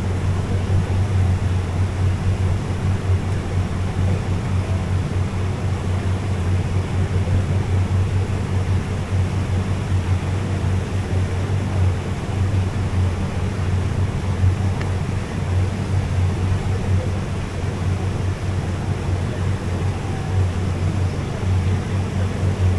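Small boat's outboard motor running at a steady speed: a constant low drone with a rushing noise over it.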